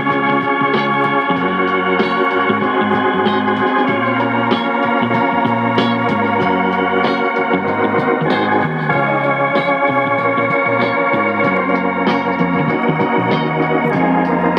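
Hammond organ music played back from tape on a reel-to-reel recorder: held organ chords over a bass line that keeps moving.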